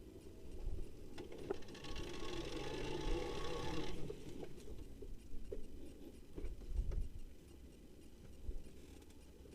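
Trail motorcycle engine revving hard for about two seconds and cutting off sharply about four seconds in, with low thumps and rustling around it.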